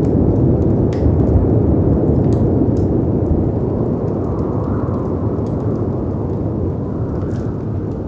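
Low, steady rush of howling wind and crashing sea waves, swelling a little around the middle, with sharp crackles and pops from a wood fire scattered through it.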